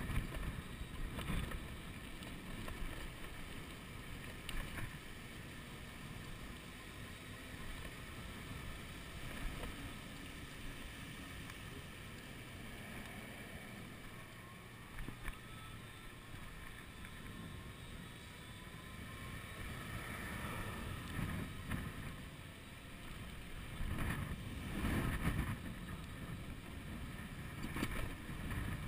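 Wind buffeting a chest-mounted action camera's microphone on a moving e-bike, a steady rumble that swells in gusts several times, most strongly toward the end.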